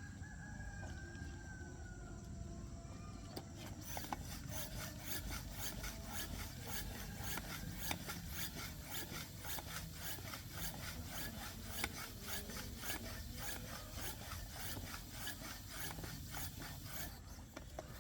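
Quick, repeated rubbing or scraping strokes, as of something being worked back and forth by hand. They start a few seconds in and stop shortly before the end.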